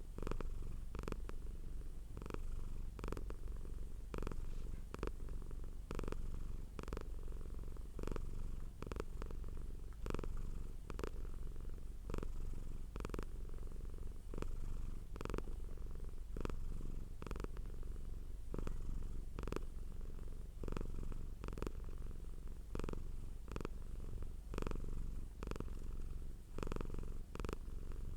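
Domestic cat purring close up, a steady low rumble that pulses about once a second with its breathing.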